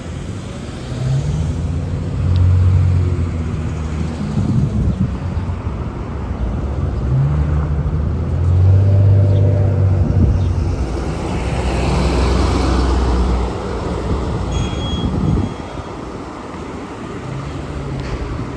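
Road traffic with heavy vehicles passing, including buses: low engine drone rising in pitch as vehicles pull away, twice, then a swell of tyre and road noise that drops off sharply about three-quarters of the way through.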